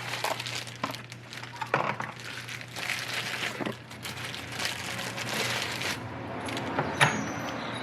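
Rustling and handling noise with scattered light clicks and knocks, the sharpest about two seconds in and near the end, over a faint steady hum.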